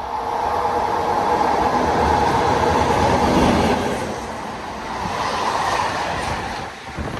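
A train passing along the line, its wheel and rail noise swelling to a peak about three seconds in and then easing off.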